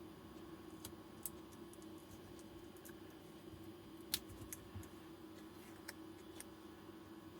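A few sharp, scattered clicks and ticks of small hand tools and battery-pack parts being handled, the strongest about four seconds in, over a faint steady hum.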